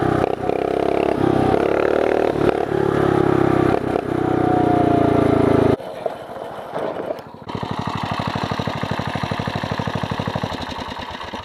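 Mini bike's small single-cylinder four-stroke engine running hard under throttle, then cut back suddenly about six seconds in; it settles to a lower, evenly pulsing idle that fades away near the end.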